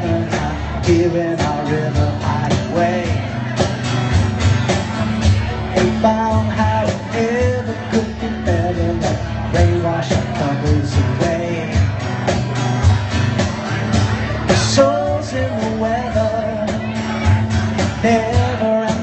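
Live rock band playing a song, with a lead singer's voice over guitar and a steady drum beat.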